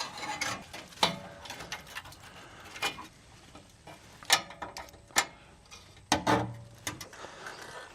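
Hand tools clicking and clanking on metal, a scattered series of sharp clicks and knocks, while plumber's strap is fastened up as a makeshift exhaust hanger.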